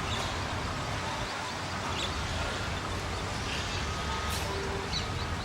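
Steady low rumble of a diesel train engine running during shunting, with a few faint short high chirps over it.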